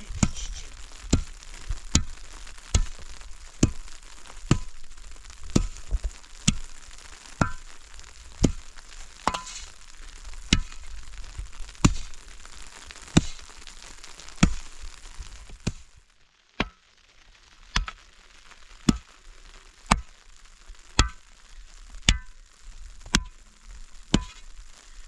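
Sharp knocks repeating evenly, about one a second, over a steady hiss that fades out about two-thirds of the way through.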